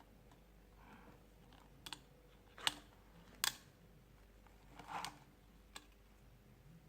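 Small sharp clicks of tools and plastic parts being worked inside an opened smartphone, five or so spaced over several seconds, with a brief scrape about five seconds in.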